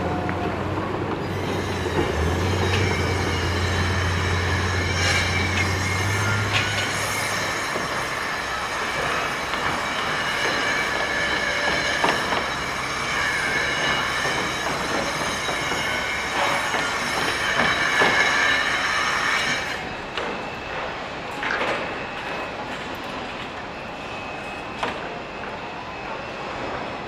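Heavy metal-on-metal squealing: several steady high-pitched tones held over a continuous rough rumble, with a low hum under it for the first several seconds. About twenty seconds in, the highest squeal cuts out and the sound drops to a quieter rumble with scattered knocks.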